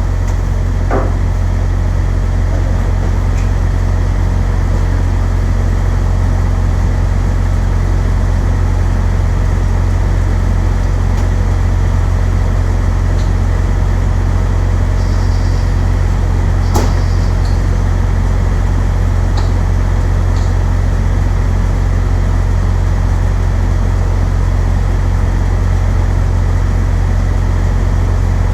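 Diesel engine of a parked delivery truck running steadily with a deep hum, with a couple of short clicks about a second in and near the middle.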